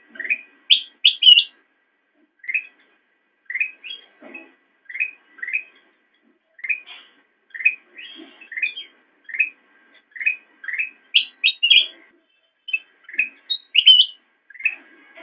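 A kutilang emas bulbul singing a run of short, sharp chirps, about two a second. Louder, higher-pitched clusters of notes come about a second in and again near the end.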